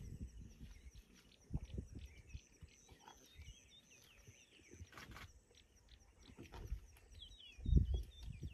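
Small birds chirping in short twittering runs, over irregular low thuds and crackles, with a louder low thud near the end.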